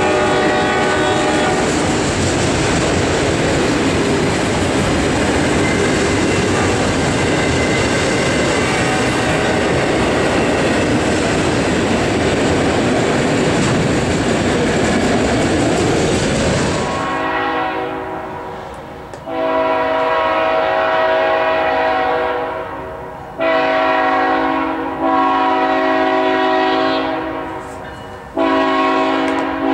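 Autorack freight cars rolling past, a steady rumble and rattle of steel wheels on rail. About 17 seconds in it changes to the horn of an approaching CSX GE ET44AH freight locomotive: a chord of several tones sounded in a run of long blasts with one shorter one.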